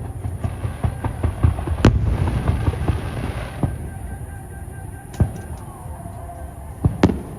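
Aerial fireworks shells bursting over a low, echoing rumble: a quick run of pops and booms in the first two seconds, a hissing crackle from about two to three and a half seconds in, then a sharp bang about five seconds in and a close pair of bangs near the end.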